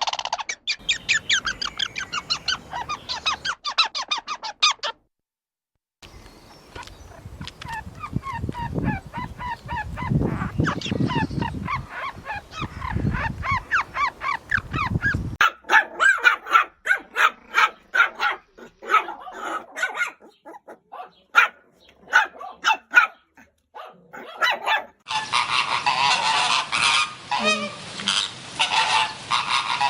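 A run of short animal recordings cut one after another, mostly honking, goose-like bird calls repeated in quick succession. A brief silent gap comes about five seconds in, and from about 25 seconds on many calls overlap, as from a flock.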